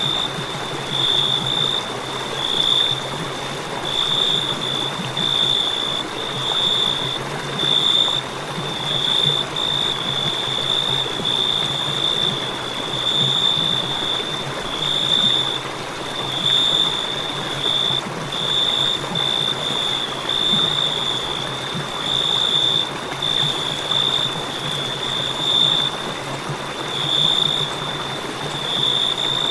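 Crickets trilling without a break at one high pitch, the chorus swelling and easing every second or two, over a steady hiss.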